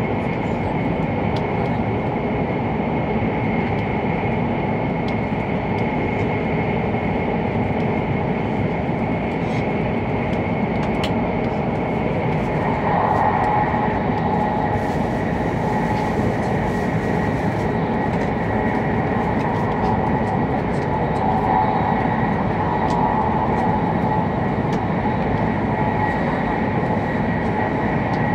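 Inside the passenger cabin of an E7 series Shinkansen running at speed: a steady, dense rumble and rush with a faint steady whine, swelling a little about halfway through and again later.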